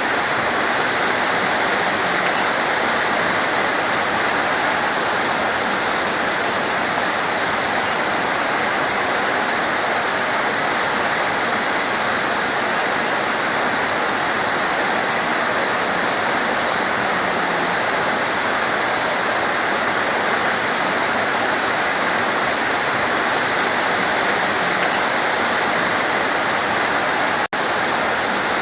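Heavy torrential rain falling steadily, a dense even hiss with no let-up. The sound cuts out for an instant near the end.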